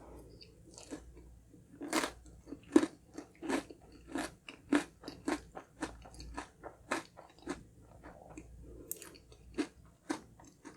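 Close-up chewing of Red Ribbon honey crunch cake with its crunchy honeycomb topping, a steady run of crunches nearly two a second, starting about two seconds in and growing fainter near the end.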